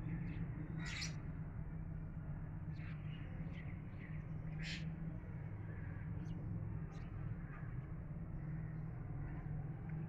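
Scattered short, sharp bird calls, about ten of them, the loudest about a second in and another just before the middle, over a steady low background rumble.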